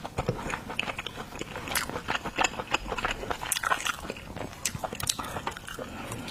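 Close-miked eating of seafood: chewing and biting, with a dense run of quick, irregular crackles and clicks.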